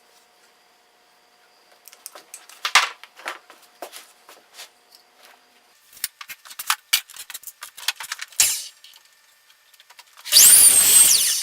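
Clicks, knocks and clatter of boards and tools being handled for several seconds, then a power tool runs briefly and loudly near the end, its pitch rising and then falling.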